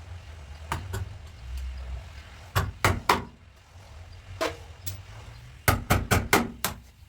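Hammer blows on car-body sheet metal, struck in irregular groups, ending in a quick run of five, each a sharp knock with a short ring, over a steady low hum.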